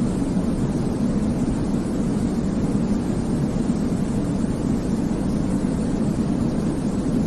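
Steady white noise for baby sleep, weighted toward a low, even rumble, with no changes or breaks.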